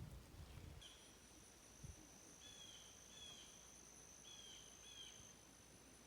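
Faint outdoor animal sounds: a steady high insect trill that starts about a second in, with a bird giving five short, slightly falling chirps over it.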